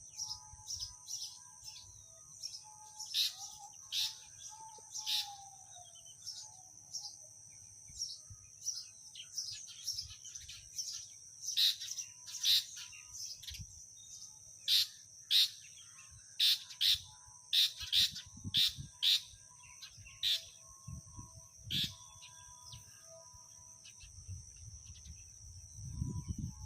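Sparrows chirping: dozens of short, sharp chirps at irregular intervals, thickest in the middle stretch, over a steady high-pitched hum. Some low rumbling comes in near the end.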